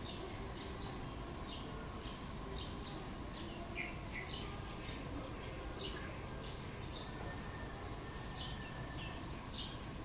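Small birds chirping: many short, sharp chirps, each dropping slightly in pitch, coming in quick irregular succession over a steady low background hum.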